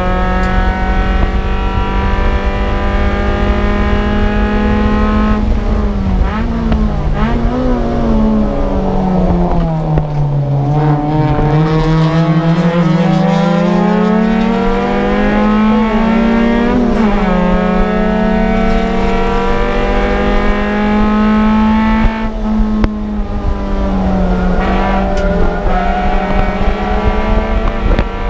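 Suzuki Swift Sport's stock 1.6-litre M16 four-cylinder engine running hard at high revs. From about six seconds in the pitch falls as the car slows, then climbs steadily back up and drops sharply at a gear change after about seventeen seconds, before holding high again.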